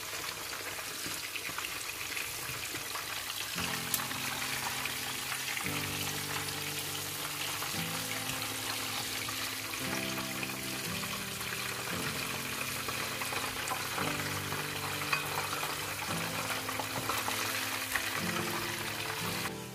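Salted fish (makayabu) frying in a pan of hot oil, with a steady sizzling hiss. Background music with low chords changing every second or two joins about three and a half seconds in.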